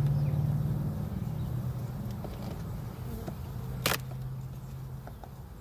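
Honeybees buzzing, a steady low hum that fades away over a few seconds, with one sharp click about four seconds in.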